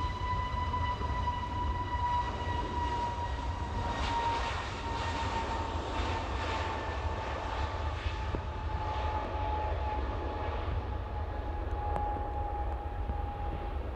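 Airbus A321neo jet airliner passing by: the engines' whine slowly falls in pitch over a steady low rumble.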